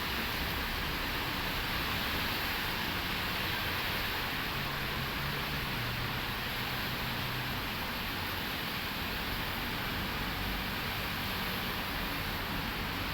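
Steady rain falling, an even hiss, with a faint low hum for a few seconds in the middle.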